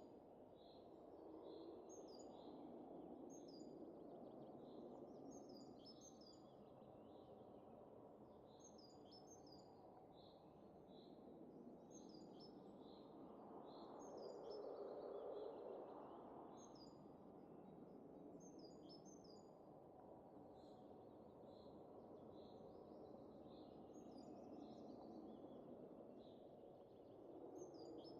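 Soft wind rushing, swelling to its loudest about halfway through, with small birds chirping in short repeated calls throughout. The whole scene is faint.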